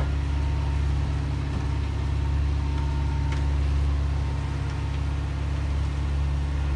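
A sailboat's inboard diesel engine running steadily with the boat under way, a low, even drone.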